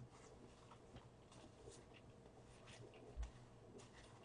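Faint chewing and small mouth clicks from a bite of Shake Shack burger, over near-silent room tone, with one soft low thump about three seconds in.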